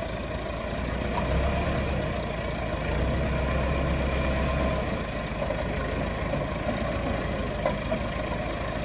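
Heavy diesel engine running steadily, its low rumble heavier from about one to five seconds in.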